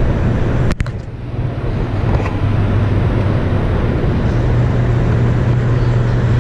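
Steady low hum over a dense rushing noise from the Hoover Dam power plant, water rushing through a penstock and the plant's machinery running. There is a brief sharp break about a second in.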